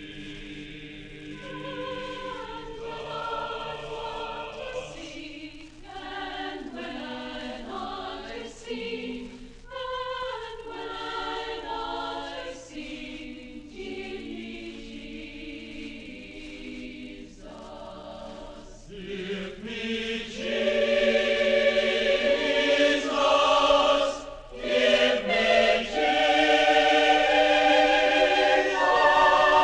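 Choir singing, several voice parts holding and moving between notes with vibrato; the singing swells much louder about two-thirds of the way through.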